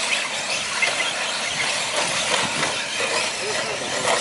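Radio-control short course trucks racing: a steady hiss of motors and tyres on the track, with scattered short clicks.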